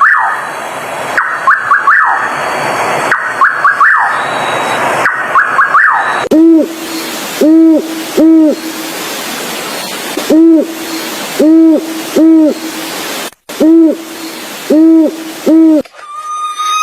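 An owl hooting low, in three groups of three hoots each over a steady hiss. Before the hooting, about the first six seconds hold a harsh hissing noise with short clusters of quick chirping pitch sweeps.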